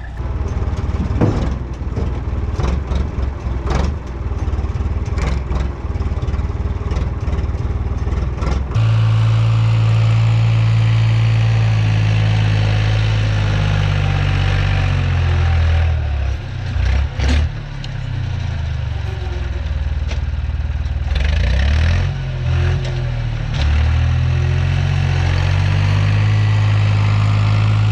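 A vehicle engine running. For the first several seconds there is a low rumble with repeated clattering knocks; then a steady, loud low drone sets in and shifts in pitch a few times.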